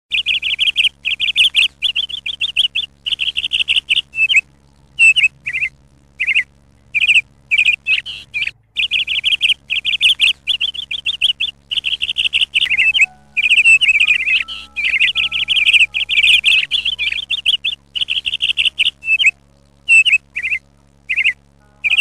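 A bird singing: fast, high trills about a second long, repeated with short gaps and alternating with single short chirps.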